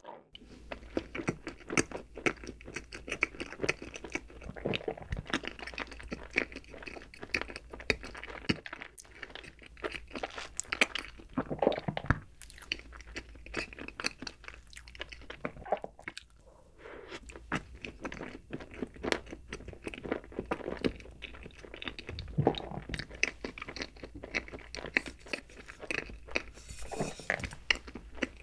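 Close-miked chewing and biting of soft chocolate roll cake with cream filling: wet mouth smacks and many small irregular clicks, with brief pauses between mouthfuls.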